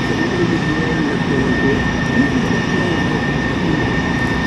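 Aero L-39 Albatros jet engine, its single Ivchenko AI-25TL turbofan, running in flight with a steady high whine over a continuous rush.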